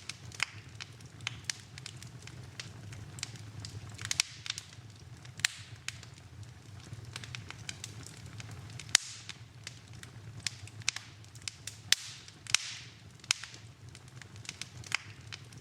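Fireplace fire crackling: irregular sharp pops and snaps, several a second, over a steady low rumble of the flames, with a couple of brief hisses about four seconds in and near the end.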